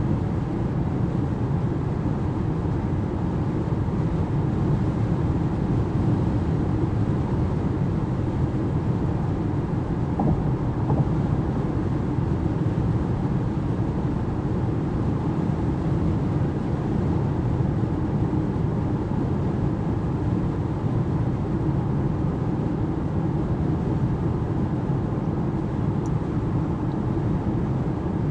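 Steady in-cabin road and wind noise of an Alpine A390 GT electric car at motorway speed: an even low tyre rumble with no engine note.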